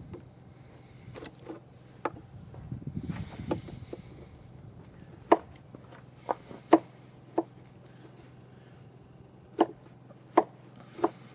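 A hand tool striking wood, about ten sharp separate knocks at uneven intervals, as a notch is cut into a wooden table leg.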